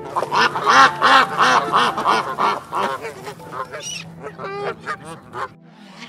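Birds calling: a rapid run of about four calls a second for the first two and a half seconds, then scattered calls that stop about five and a half seconds in.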